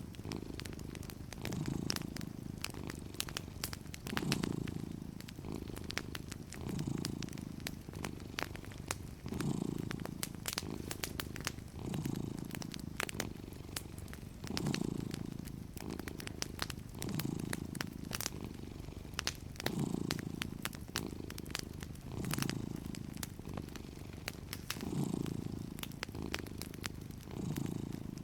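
A cat purring steadily, swelling and easing about every two and a half seconds with its breathing. Over it, a wood fire crackles with frequent small sharp pops.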